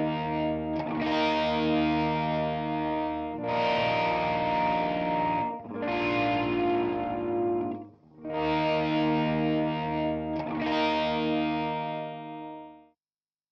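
Distorted electric guitar with a chorus effect strumming sustained chords, a new chord every two seconds or so with short breaks between them; the final chord rings and then cuts off shortly before the end, closing the song.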